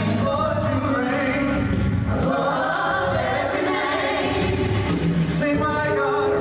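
Music with a choir singing, held notes over full instrumental backing.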